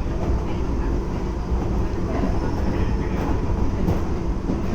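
Keisei 3400 series electric train running, heard from inside the passenger car: a steady low rumble of wheels and bogies on the rail with a few faint knocks.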